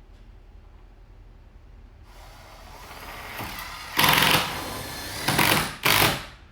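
A handheld power drill spins up, then runs in three short loud bursts.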